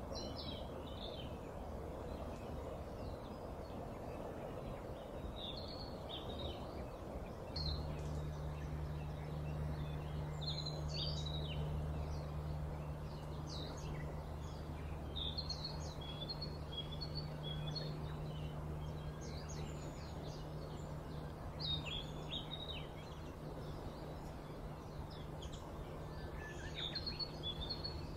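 Small birds chirping, short high calls repeated over steady background noise. A low, steady hum starts about seven seconds in and continues.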